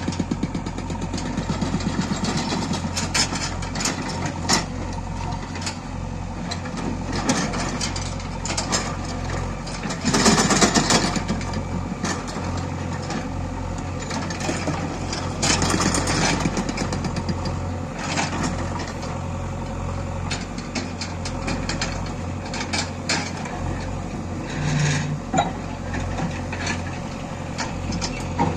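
Heavy diesel machinery running steadily at low revs, with scattered knocks and clanks and louder bursts of clatter about ten and fifteen seconds in.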